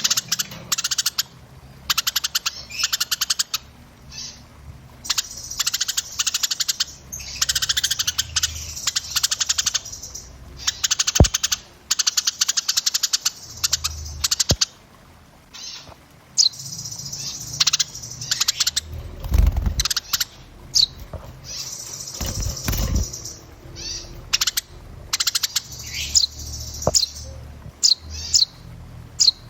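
Small songbirds chirping densely in rapid chattering trills and runs of quick notes, later with short sharp falling whistles: a 'burcil rapat' masteran track of packed small-bird calls used to tutor caged songbirds. Two dull low thumps sound a little past the middle.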